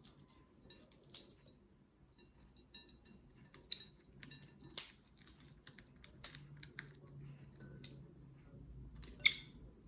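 Green-cheeked conure's beak biting and crunching at a walnut shell: a run of irregular sharp clicks and cracks, with the loudest crack about nine seconds in.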